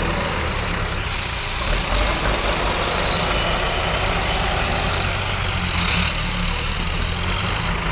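Diesel engine of heavy earthmoving or farm machinery running steadily at a low, even speed.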